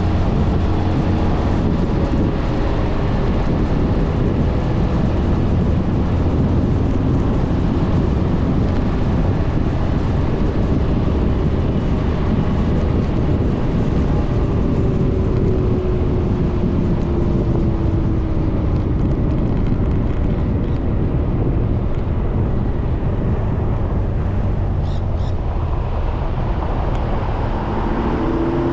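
Steady wind rush and road noise from a moving 2020 Suzuki Burgman 400 scooter, with its single-cylinder engine and CVT running underneath. A faint falling tone passes in the middle, and a rising tone comes in near the end.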